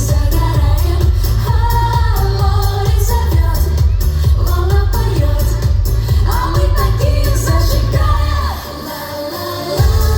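Live pop music through a concert PA: women's vocals over a band with a steady bass beat. The bass and drums drop out for about a second near the end, then the full band comes back in.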